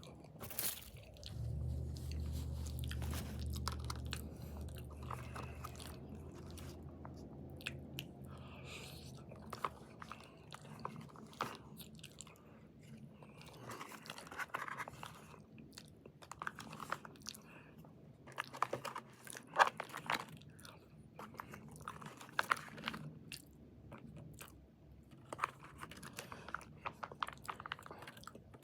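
A person chewing and eating MRE spicy penne pasta, with scattered short clicks and scrapes throughout. A low hum runs underneath for the first several seconds and fades away.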